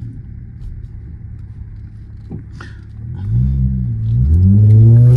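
Car engine idling, heard from inside the cabin, then revving hard about three seconds in, its pitch climbing in two steps. It is a hard launch to kick the rear out on a wet road, which with an open differential fails to slide properly.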